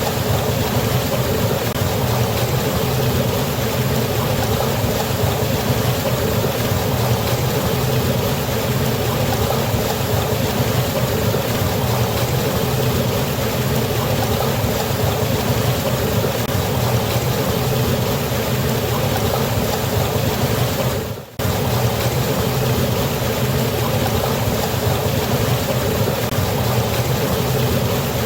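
Steady, dense rush of falling water from a waterfall, with a deep rumble underneath. Once, about two-thirds of the way through, the sound drops out for a split second and returns.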